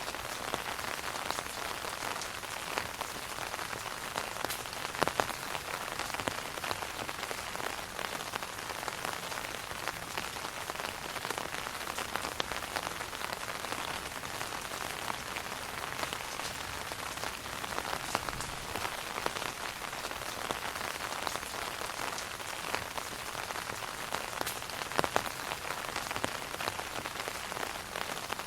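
Steady rain pattering on an umbrella overhead, a dense patter of drops with an occasional louder single drop.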